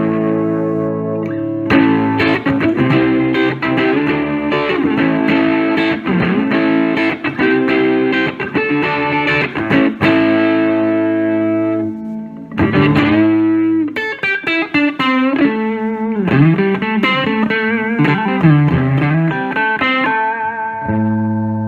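Electric guitar on a Fat Bottom humbucker in the neck position, lightly overdriven by a Zvex Box of Rock pedal into a Fender Vibrolux Reverb amp. It plays held, strummed chords for the first half, then single-note lead lines with bends and vibrato, and ends on a held chord.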